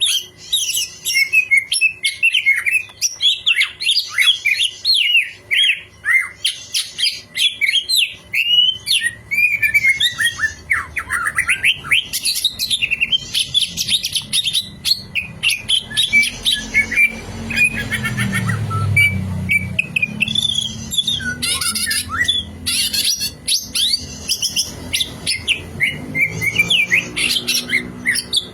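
Cucak hijau (green leafbird) singing a fast, varied, unbroken stream of chirps, whistles and sliding trills. It is a lure song, played to set a kept bird singing in answer. A low hum rises under the song around the middle.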